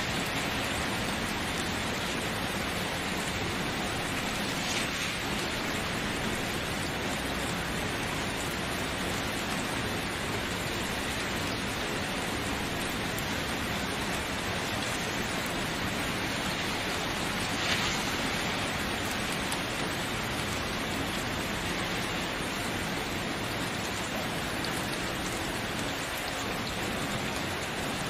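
Steady rainfall, an even hiss of rain falling on a surface, with a few louder drops standing out now and then, the clearest about two-thirds of the way through.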